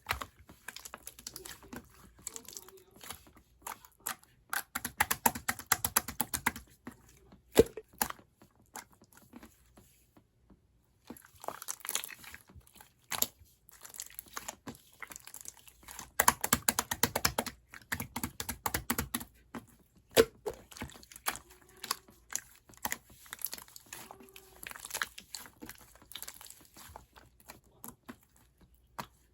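Crinkling and clicking handling sounds that come in bursts of a second or two, with single sharp clicks in between and a short pause about ten seconds in.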